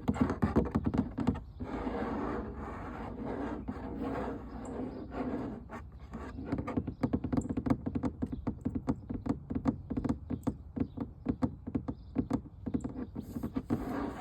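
Rapid tapping and scratching on an object. A rougher scratching stretch comes in the first half, then quick, crisp taps follow, several a second.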